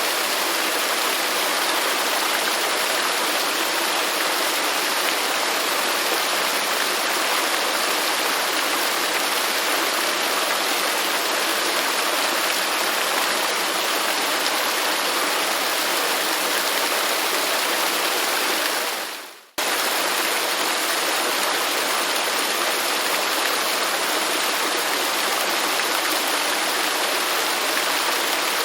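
Waterfall: steady, dense rushing of falling water. About two-thirds of the way through it fades out quickly and cuts straight back in half a second later.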